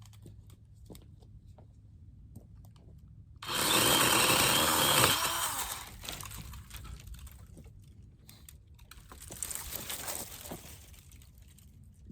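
Power saw cutting into downed wood: it starts abruptly about three and a half seconds in, runs loudly for around two seconds, then tails off, with a weaker second spell of cutting near the end.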